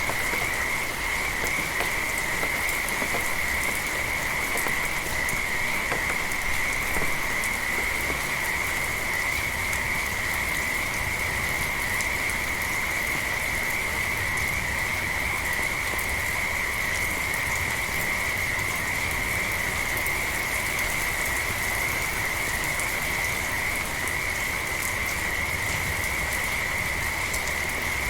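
A chorus of frogs calling without a break, high-pitched and trilling, over steady light rain pattering.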